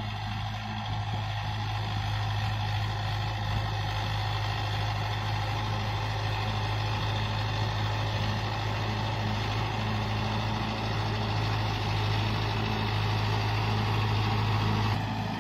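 Mahindra Yuvo Tech 575 DI tractor's diesel engine running steadily with an even low hum.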